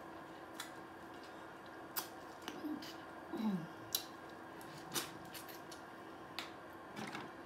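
Close-miked eating of corn on the cob: sharp wet mouth clicks and smacks about once a second, with a couple of brief low hums near the middle.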